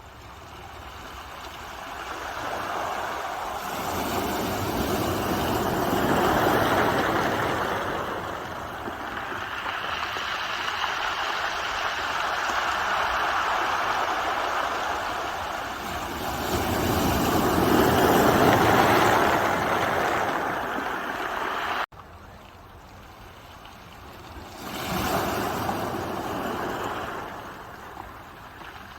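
Ocean waves surging onto the shore and washing back, the noise swelling and fading in three long surges, with an abrupt break partway through where the recording is cut.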